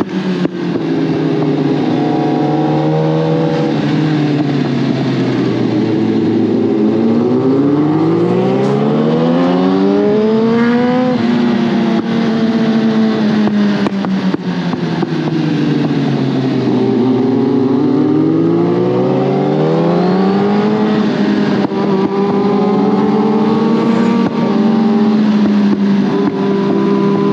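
Suzuki GSX-R1000R inline-four sportbike engine and exhaust under way. The engine note slides down, climbs back up twice, then holds steady near the end.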